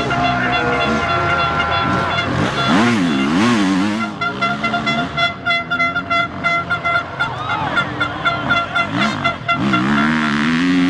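Motorcycle engines revving up and down, over a steady horn-like tone that breaks into short repeated toots partway through.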